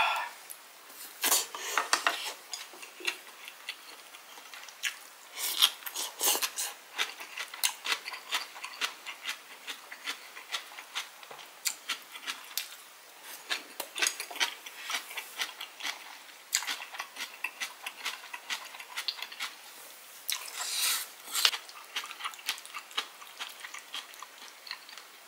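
Close-up eating sounds of a man chewing dumplings, rice and fresh cabbage kimchi: many small wet smacks and clicks, with a few short breathy bursts.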